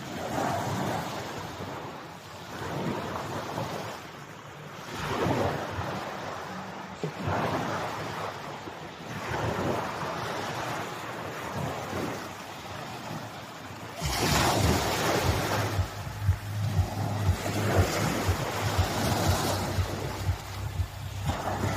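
Small Black Sea waves washing onto the shore, each wash swelling and fading every couple of seconds. About two-thirds of the way in, a louder rushing and a steady low hum join the waves.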